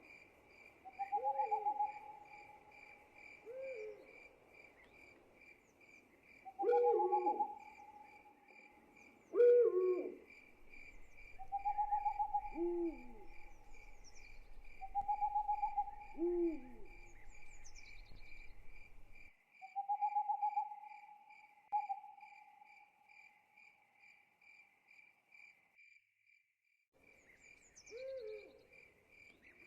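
Owls hooting, a mix of short notes and longer held notes, over a steady pulsing chirp of crickets. The hooting stops about two-thirds of the way through and returns near the end while the crickets go on.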